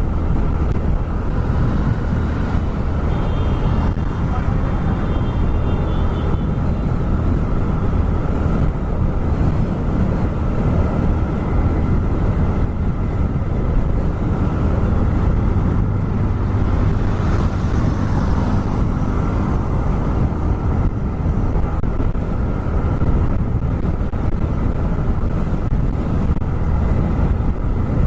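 TVS Raider 125's single-cylinder engine and exhaust running steadily at cruising speed, mixed with rushing wind noise on the rider's microphone.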